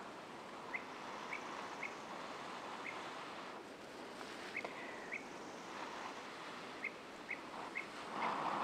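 A small bird giving short, high chirps at irregular intervals, a few a second at times, over a steady rushing background. A louder rustle comes just before the end.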